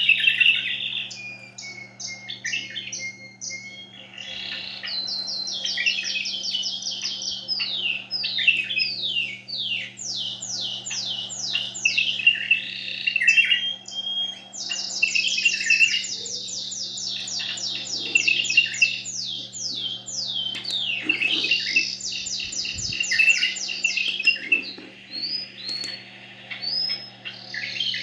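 Canary and bulbul song. The song keeps going with runs of fast, evenly repeated trills and chirping phrases and only short breaks.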